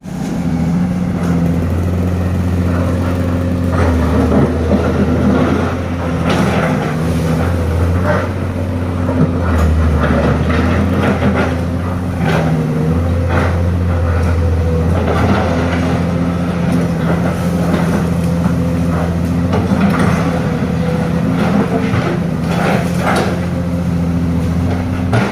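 Heavy diesel truck engine running at low revs, its pitch shifting now and then, with scattered knocks and rattles throughout.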